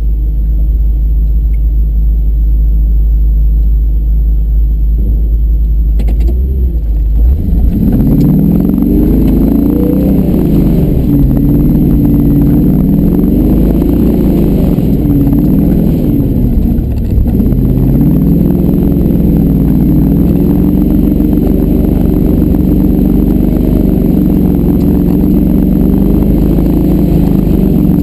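Tow truck engine working under load on a snowy trail climb. It holds a steady low rumble for about the first seven seconds, then its note rises and falls again and again as the throttle is worked.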